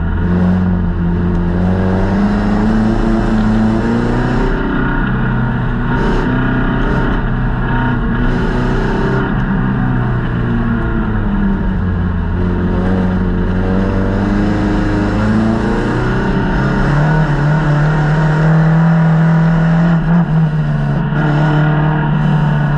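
Folkrace car's engine heard from inside the stripped cabin while racing, its revs rising and falling through the corners and held higher and louder for a few seconds past the middle.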